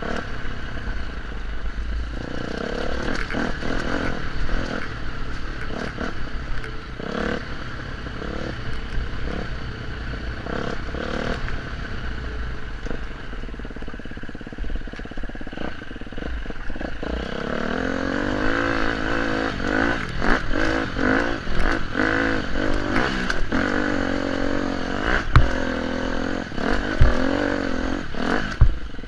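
Off-road motorcycle engine running along a rough forest road, its pitch rising and falling with the throttle, most strongly in the second half. Short clattering knocks come from the bike over the rough surface, over a steady low rumble.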